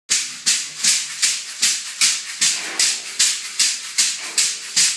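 A shaker playing a steady beat, about two and a half hissing strokes a second.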